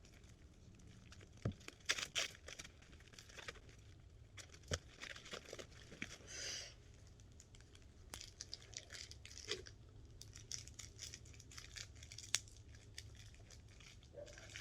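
Packing material being crinkled and torn by hand while items are unwrapped from a shipping box. The rustling and crackling is irregular, with many sharp clicks and a brief tear about six and a half seconds in.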